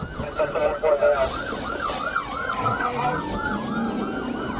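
Police car siren on yelp, its pitch sweeping rapidly up and down about three to four times a second, with a second siren gliding slowly down in pitch partway through, over vehicle road noise.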